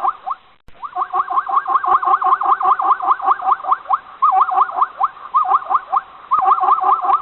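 Animal calls: rapid series of short rising chirps, about six or seven a second, in bouts with brief pauses and a short break near the start.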